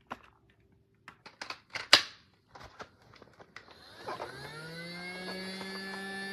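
Plastic clicks and clacks from a Casdon Dyson toy cordless vacuum being handled and switched, the loudest about two seconds in. About four seconds in, its small battery-powered motor starts up, rising in pitch and settling into a steady whine.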